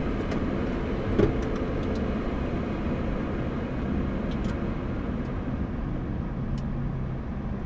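Steady rumble and hum of a Boeing 737 MAX heard from inside its cockpit, with one brief knock about a second in.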